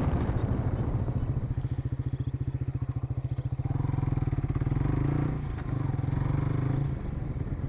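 Motorcycle engine running at low speed with an even, pulsing beat, heard from on the bike. Wind noise fades out at the start, and the engine note dips briefly about five seconds in and drops again near the end.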